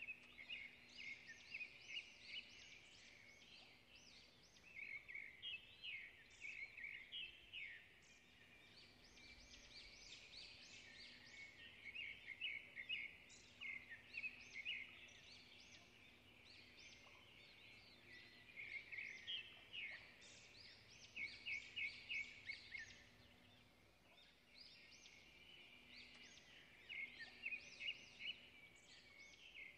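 Faint, rapid chirping and twittering of small birds, coming in bursts of a few seconds with short pauses, over a faint steady low hum.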